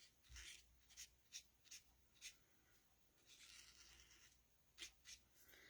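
Faint scratching of a marker's broad tip colouring on cardstock: a string of short dabs, then one longer stroke of about a second a little past the middle.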